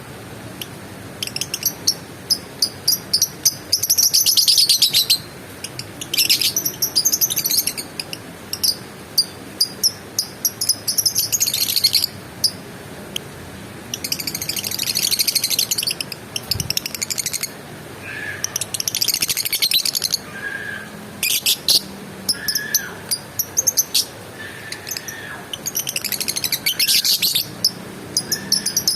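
Lovebird chattering: bursts of rapid, high, buzzy trills lasting a second or two, with quick sharp chirps in between and a few short lower notes in the second half.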